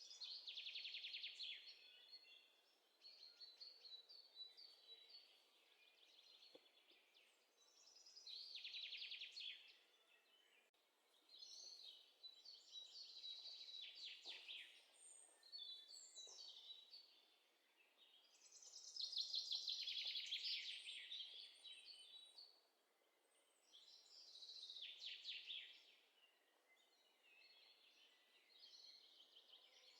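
Birds singing faintly in the background: high-pitched, rapidly trilled phrases, repeated every few seconds.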